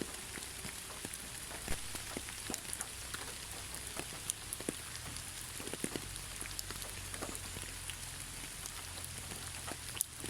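Steady rain falling, with a constant hiss and many scattered individual drops ticking and pattering on surfaces.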